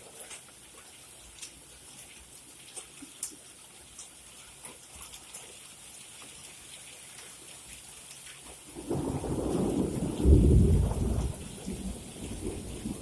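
Rain falling with scattered drips, then about nine seconds in a loud, low rumble of thunder that builds to a peak and slowly rolls away.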